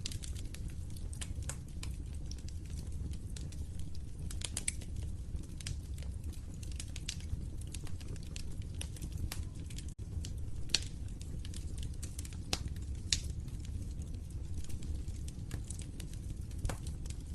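Wood fire in a fireplace crackling, with irregular sharp pops and snaps over a steady low rumble of the flames. The sound drops out for an instant about halfway through.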